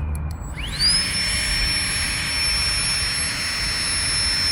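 Flextail battery-powered mini air pump starting up: a few clicks, then a quickly rising whine that settles into a steady high whine with a rush of air as it inflates a Therm-a-Rest sleeping mat.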